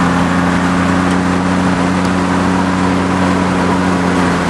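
Turbocharged 2JZ-GTE inline-six in a Toyota pickup running at steady revs, a constant low drone over a rushing haze, heard from inside the cab.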